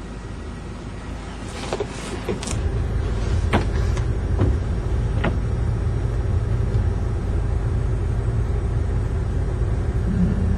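Car driving: a steady low road rumble that grows clearly louder about two and a half seconds in and then stays even, with a few short clicks and knocks around the change.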